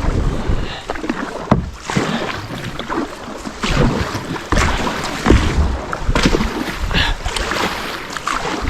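Paddle strokes splashing beside a sit-on-top kayak on a river, irregular dips and wet slaps over running water, with wind buffeting the microphone.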